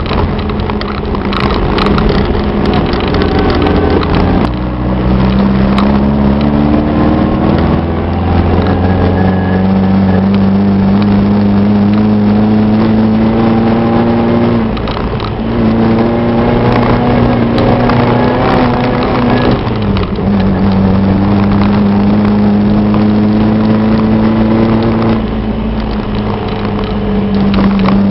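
Off-road VW's engine heard from inside the cab while driving over a dirt trail. Its pitch climbs under throttle, drops sharply at shifts about fifteen and twenty seconds in, then holds steady, with occasional knocks from the rough ground.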